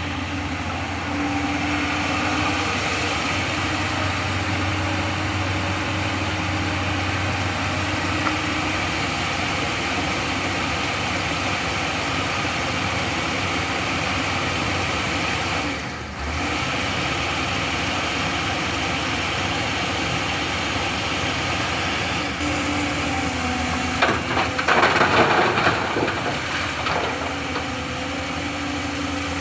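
Diesel engine of heavy earthmoving machinery running steadily. There is a brief dip about halfway through and a louder, rougher surge for a couple of seconds near the end.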